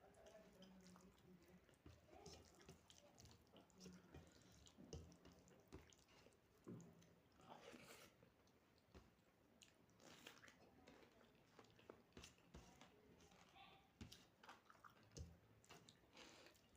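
Quiet chewing of a meal of rice, soya chunks and salad, with soft wet mouth sounds and scattered small crunches and clicks at irregular intervals.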